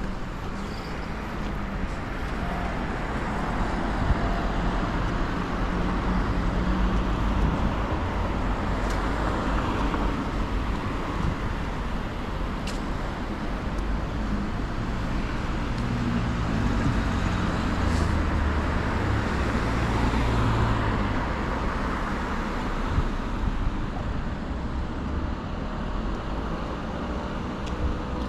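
Road traffic: motor vehicles passing on a road, a steady wash of tyre and engine noise with a low rumble. It swells as vehicles go by, about a quarter of the way in and again about two-thirds through.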